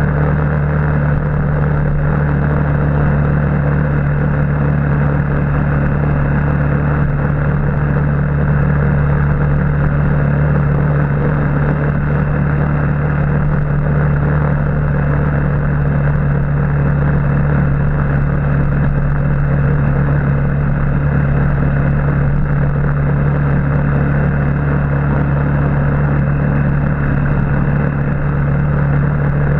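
Motorbike engine running at a steady, even pitch, holding a constant speed.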